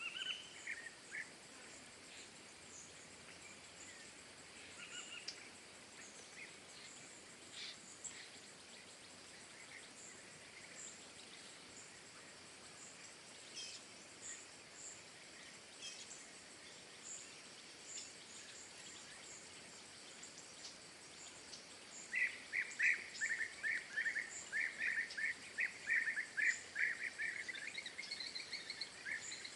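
Small songbirds calling at a bird feeder: scattered short chirps, then about two-thirds of the way through a long, fast run of repeated chattering notes lasting several seconds, over a steady background hiss.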